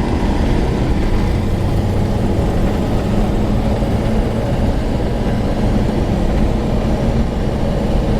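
1940 Buick 81C's straight-eight engine running steadily as the car drives along, heard from inside the cabin with road noise.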